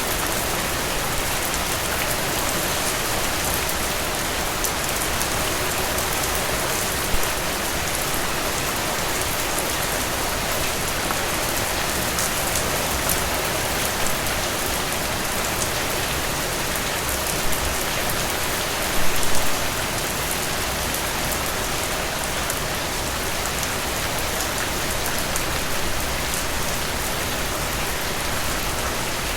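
Steady rain, with fine close drop ticks throughout and a few louder drips standing out. The loudest of these is a short cluster about two-thirds of the way in.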